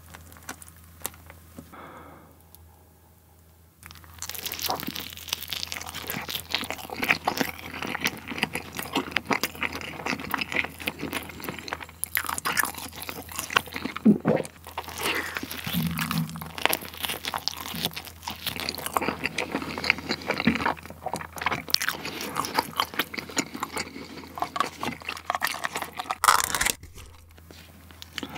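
Close-miked biting and chewing of a slice of double potato pizza with a cheese crust. The chewing is dense and continuous from about four seconds in, after a quieter start.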